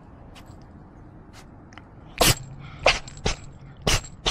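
A domestic cat sneezing four times in quick succession in the second half, each sneeze a short sharp burst.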